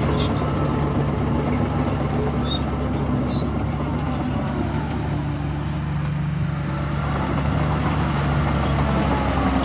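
Heavy diesel engine of earthmoving machinery running steadily, easing off slightly midway and picking up again near the end, with a few faint high metallic clicks in the first few seconds.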